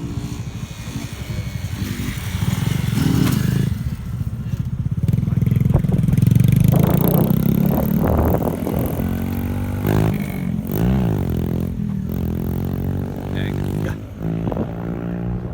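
Motorcycle engines running and revving, loudest about six to seven seconds in, with the pitch falling and rising again later on.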